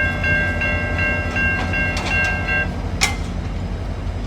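Level crossing warning bell ringing about three times a second while the gates rise, stopping about two and a half seconds in. A single sharp click follows, over a steady low rumble.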